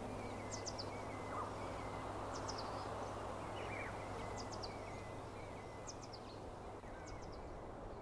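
Quiet outdoor ambience: a steady hiss of background noise, with a bird giving a short call of three quick high notes five times.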